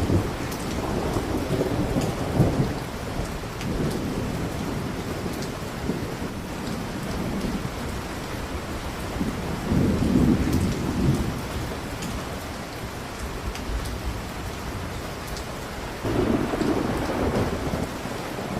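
Steady rain with low rolls of thunder swelling up three times: at the start, about halfway through and near the end.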